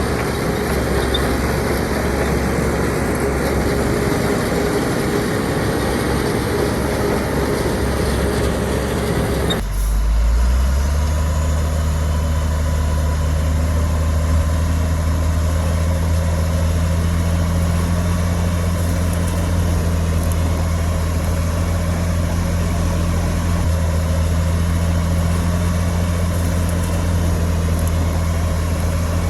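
Heavy diesel engine of construction machinery running under load. About ten seconds in the sound changes abruptly to a steadier, lower engine drone.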